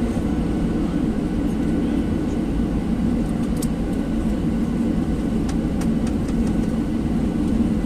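Steady low rumble of an airliner's engines and airflow heard inside the passenger cabin during the descent to land, with a few faint ticks.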